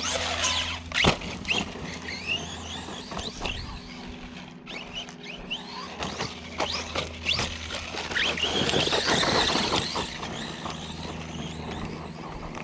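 Arrma Outcast 4S RC truck's brushless electric motor whining up and down in pitch as it accelerates and lets off, with its tyres on dirt. There are a few sharp knocks, the strongest about a second in, and a louder, rougher stretch of tyre noise near the end.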